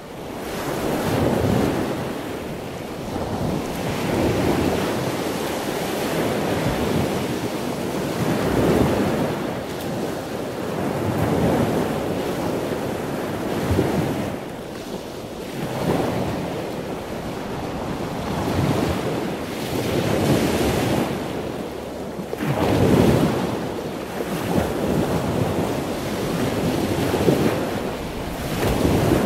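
Ocean surf: waves washing in and drawing back, the rushing noise swelling and fading every three or four seconds.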